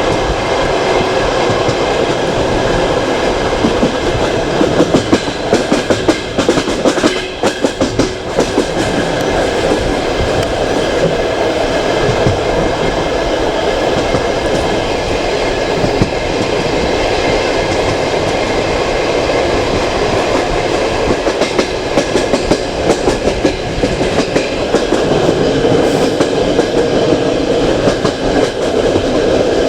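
Passenger train coach running at speed, heard from its window: a steady rush of wheels on rail, with a run of rapid rail-joint clicks between about four and eight seconds in.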